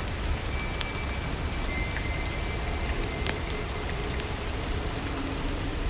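Ambient bed of steady rain with a fire crackling, scattered sharp pops over a constant hiss.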